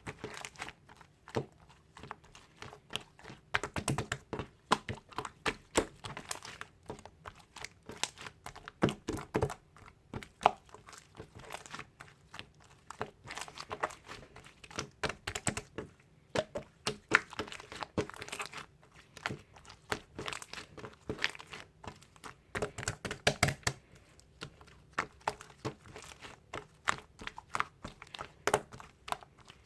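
Slime being squished and stretched by hand, making a steady stream of irregular sticky clicks and pops.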